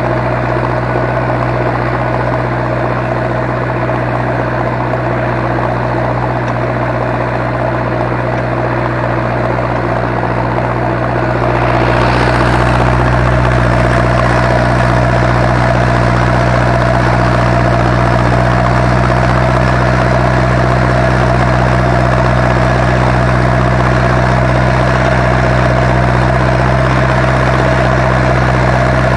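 Zetor 7245 tractor's four-cylinder diesel engine running steadily while ploughing, getting louder about twelve seconds in and holding there.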